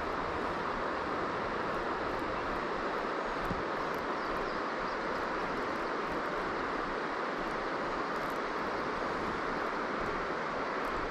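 River water rushing over nearby rapids, a steady, unbroken rush.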